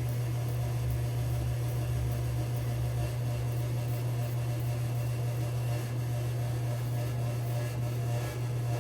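Steady low hum, the loudest and most constant sound, with faint scratchy strokes of a double-edge safety razor cutting through lathered stubble.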